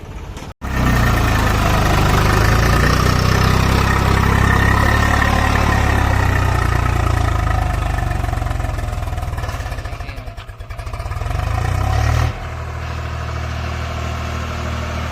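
Tractor diesel engine running hard and steady, with a brief dip in level about ten seconds in. Near the end it changes abruptly to a quieter, steadier engine sound.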